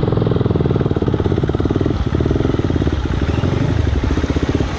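Motorcycle engine running, with a rapid, even firing pulse.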